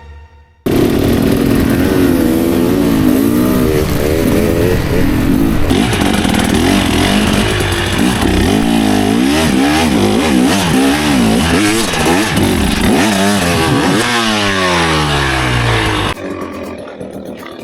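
Dirt bike engines revving hard, the pitch rising and falling again and again as the throttle is worked. The sound starts abruptly just under a second in and cuts off abruptly near the end, with a long falling drop in revs shortly before the cut.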